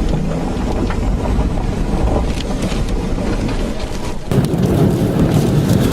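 Severe-storm wind and rain buffeting a storm chaser's vehicle, a heavy low rumble with scattered ticks of rain on the body. About four seconds in it cuts abruptly to louder wind-driven rain with many sharp crackling ticks.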